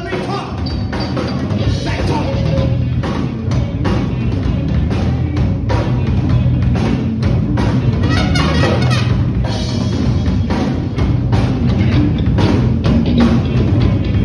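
Rock band playing an instrumental passage, with a steady drum-kit beat and a strong bass line.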